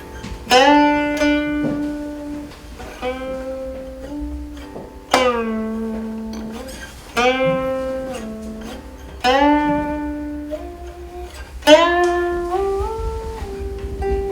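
Guqin, the seven-string Chinese zither, played solo in a slow passage: single notes plucked about every two seconds, each left to ring and fade while its pitch slides up or down to new notes.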